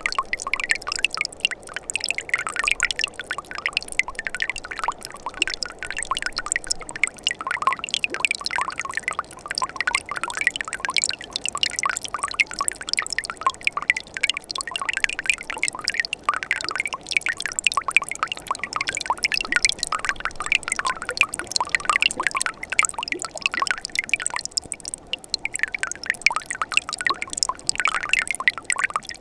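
Mountain stream running in winter, with ice on the stream: a steady trickling and gurgling made of many small splashes.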